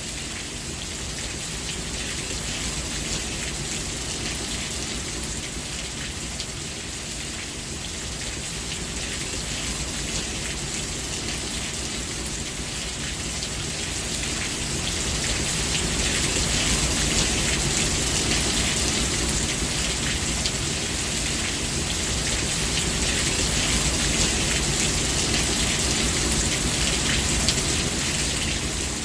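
Steady rain falling, a dense hiss of many drops on a surface, growing a little heavier about halfway through.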